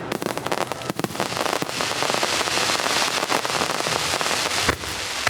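Fireworks barrage: many quick cracks that thicken into a dense continuous crackle of bursting shells, with one sharper bang near the end.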